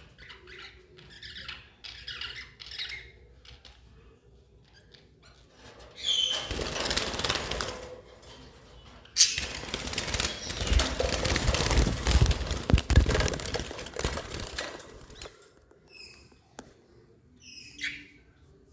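Budgerigars chirping in short calls, with two long stretches of loud wing flapping in the middle.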